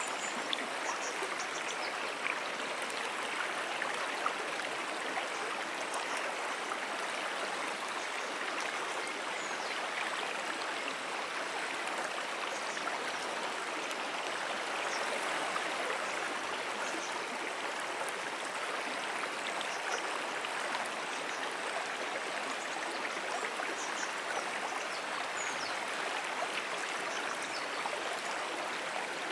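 A brook's water running steadily, an even, unbroken flowing sound with no pauses.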